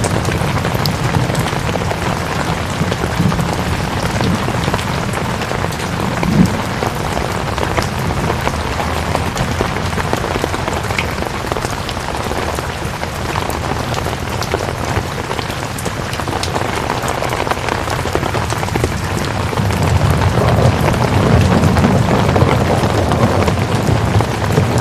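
Steady rain falling, an even hiss with a fine patter of individual drops. A low rumble swells up in the last few seconds.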